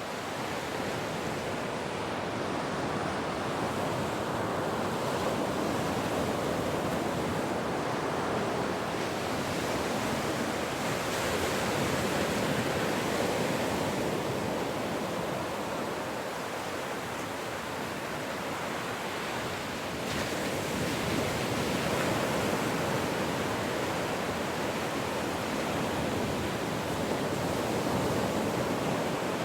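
Ocean waves washing onto a shore, a steady surf hiss that swells and ebbs every several seconds.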